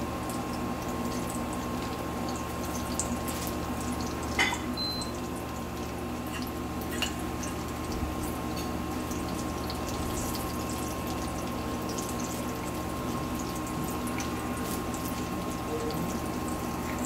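Breaded bread pies shallow-frying in hot oil in a nonstick pan: a steady sizzle with fine crackling. A few sharp clicks stand out about four and seven seconds in.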